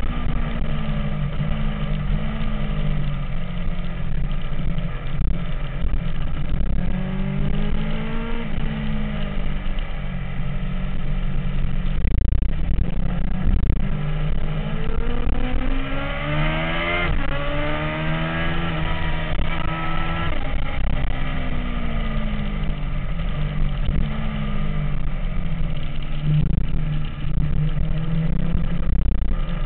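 MV Agusta F4's inline-four engine running, its pitch rising and falling again and again as it revs up and drops back, over a steady low rumble.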